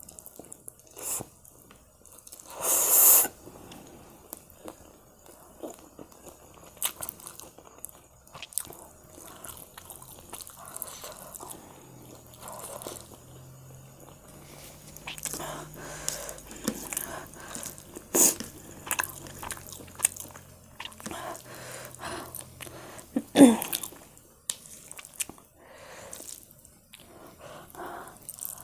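A person eating spicy Korean instant noodles: chewing and biting sounds with scattered clicks, a loud noisy burst about three seconds in and another sharp loud sound near the end.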